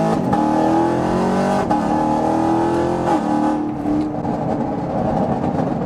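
Chevrolet Camaro 1LE's V8 heard from inside the cabin, accelerating hard with its pitch climbing. It shifts about a third of a second in and again near 1.7 s, pulls on, then lets off about three seconds in and settles into a lower rumble.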